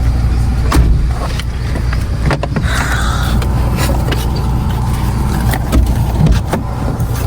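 Car driving on a dirt road: a steady low rumble of engine and tyres, with scattered knocks and rattles from the rough surface.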